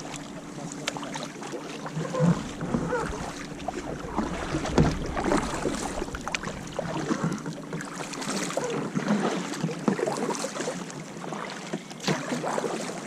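Kayak paddles dipping and pulling through the water, splashing and dripping at an uneven pace.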